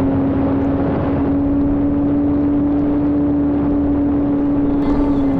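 Electric motor and propeller of a HobbyKing Crusader 30E model plane running at steady throttle in flight: one steady, unchanging hum.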